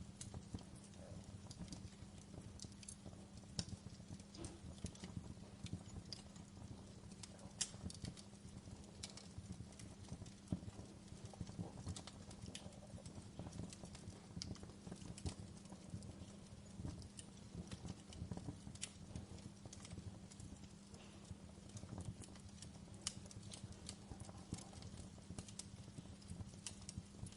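Wood fire crackling in a fireplace: irregular small pops and snaps, several a second, over a low steady rumble.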